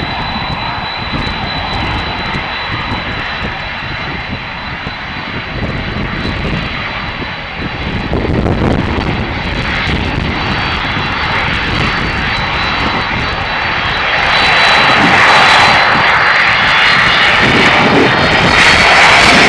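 Boeing 767-300 twin jet engines at takeoff power: a steady jet roar with a high fan whine, growing louder about eight seconds in and again about fourteen seconds in, with whines rising in pitch near the end.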